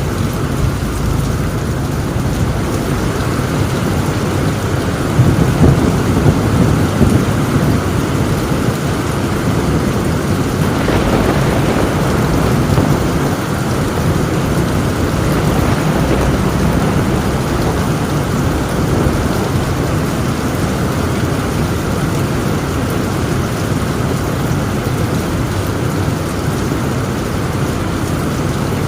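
Heavy rain drumming steadily on a tin roof, with thunder rumbling through it, loudest about five to seven seconds in.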